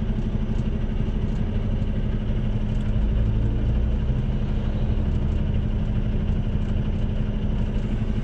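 Semi truck's diesel engine running under way with road noise, a steady low hum that swells slightly partway through.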